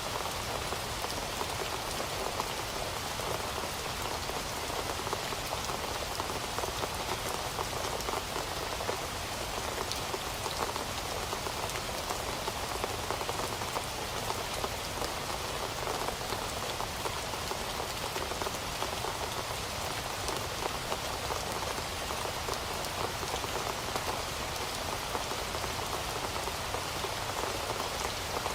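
Heavy rain falling steadily, a dense hiss of drops with countless small patters on a hard surface.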